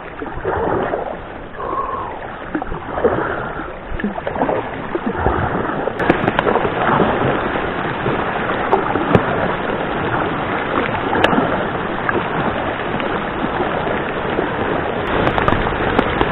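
Heavy rain pouring onto the lake and the kayak, with the splash of paddle strokes in the water. The downpour grows denser and louder after the first few seconds.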